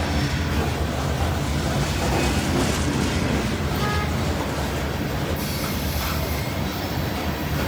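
Norfolk Southern freight train rolling past close by, a steady low rumble that does not let up.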